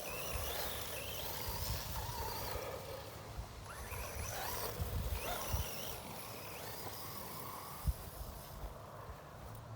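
Brushless electric motor of an HBX Firebolt 1/12-scale RC buggy whining as it speeds up and slows down several times while the buggy drives on dirt, under a patchy low rumble.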